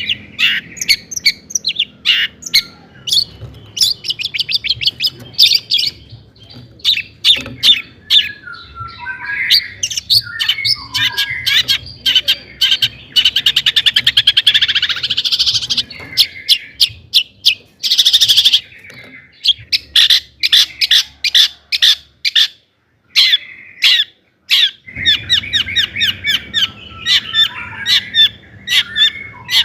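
Long-tailed shrike (cendet) singing: fast runs of sharp, loud chirps and harsh chattering notes, with two rasping buzzes about halfway through and a brief pause about three-quarters of the way in.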